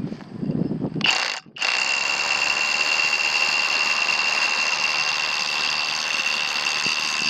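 Kobalt 24V SDS Plus rotary hammer, fitted with a 1-inch masonry bit in a keyed chuck adapter, hammer-drilling into a masonry block: a short start about a second in, a brief pause, then a steady loud run with a constant high whine. The heavy vibration works the bit loose in the chuck adapter.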